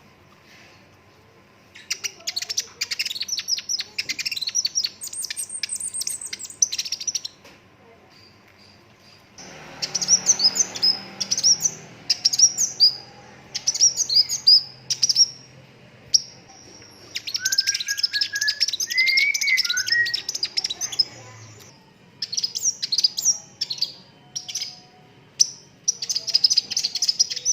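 Sunbird song: phrases of rapid, high-pitched chirps and trills given in bursts a few seconds long with short pauses between them, and a lower whistled phrase near the middle.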